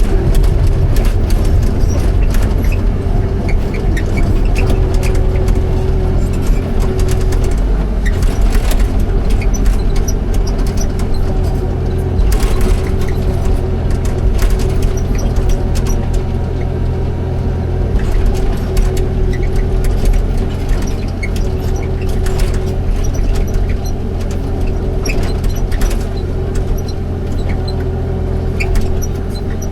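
Excavator's diesel engine running steadily, with scattered clanks and knocks throughout.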